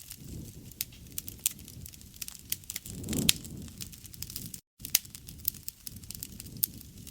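Campfire crackling and popping over a low rumble of the flames, with a louder surge and sharp pop about three seconds in. The sound cuts out completely for a split second shortly after.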